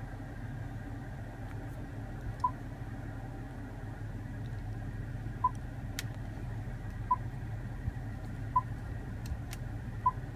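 Short electronic beeps from the Range Rover's touchscreen as it is tapped, about six at irregular intervals. Under them runs the steady low hum of the idling supercharged V8, with a few faint clicks.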